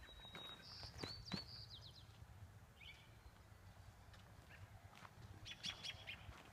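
Quiet outdoor ambience with a small bird chirping in short, high whistled calls: a run of them in the first two seconds, a brief one about three seconds in, and more near the end. Faint footsteps on gravel underneath.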